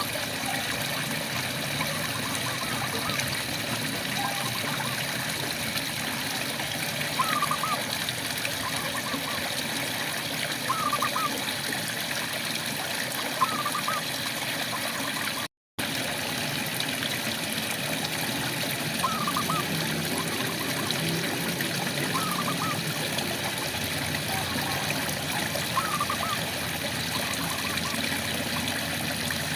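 Steady rain falling, with a frog giving short calls every few seconds. The sound cuts out completely for a split second about halfway through.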